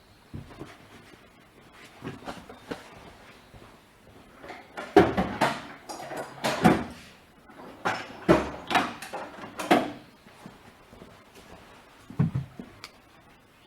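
Knocks and clatter of hard plastic and metal parts and tools being handled while a chainsaw's starter cover is taken off. There are scattered knocks at first, a busy run of clunks through the middle, and one last knock near the end.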